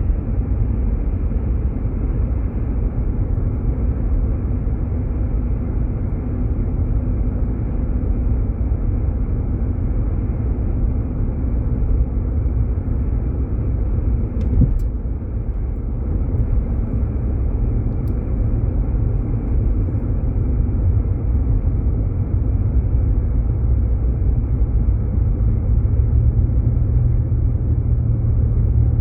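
Jeep Grand Cherokee driving on snow-covered roads, a steady low rumble of engine and tyres heard from inside the vehicle. A single brief click comes about halfway through.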